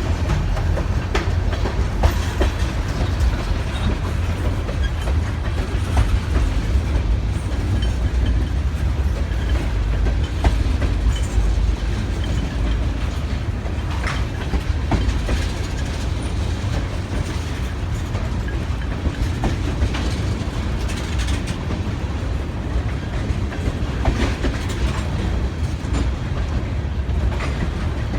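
Freight train rolling slowly past, its cars' wheels clicking irregularly over rail joints over a steady low rumble.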